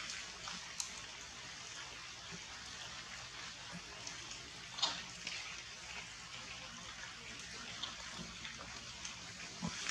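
Steady rain falling on forest foliage, a continuous hissing patter. A few sharp clicks stand out, the loudest about five seconds in.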